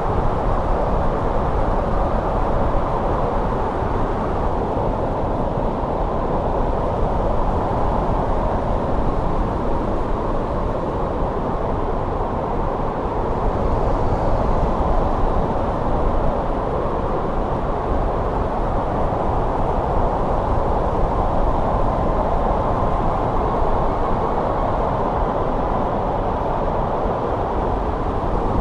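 Steady snowstorm wind, a constant rushing noise that swells slightly about halfway through.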